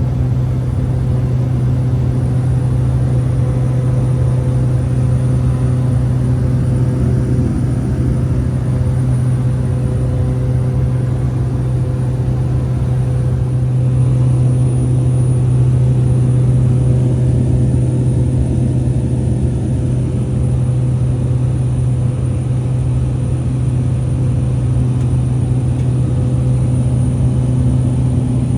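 Steady drone of a small propeller plane's engine and propeller in flight.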